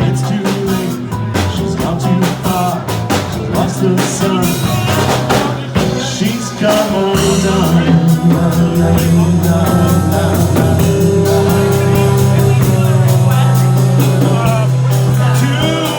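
Live rock band playing: drum kit with steady cymbal hits, bass and held chords, with a voice singing.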